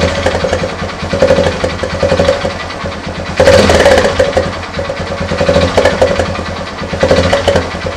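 Small commuter motorcycle engine running and being revved, its exhaust blowing through an empty Pepsi can held at the silencer outlet on a wire to change the exhaust note. It is blipped up a few times, the strongest rise about three and a half seconds in.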